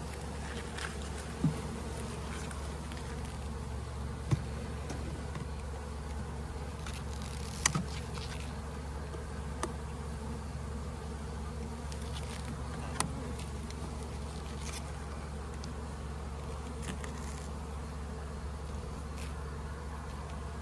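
Steady buzzing of a package of honeybees, broken by a few sharp clicks as a hive tool pries at the tabs on the plastic package.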